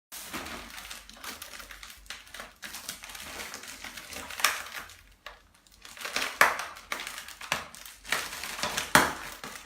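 Irregular rustling and crinkling with scattered clicks and a few sharp knocks, the loudest about halfway, about two-thirds in and near the end: handling noise from objects being moved about.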